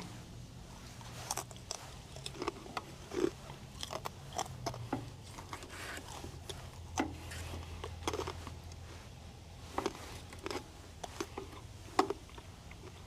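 A person chewing and biting food, with irregular crunchy clicks of the mouth, over a low steady hum.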